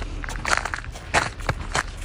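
Footsteps in snow, an irregular few steps each second, each one a short crunching stroke.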